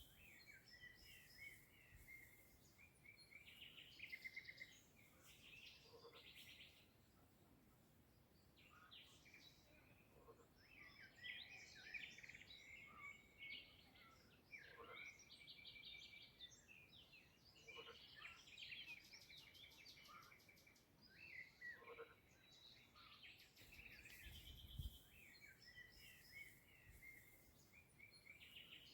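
Faint dawn chorus of several songbirds chirping and singing, with short whistled notes, quick rattling trills and falling calls overlapping. A brief low rumble comes near the end.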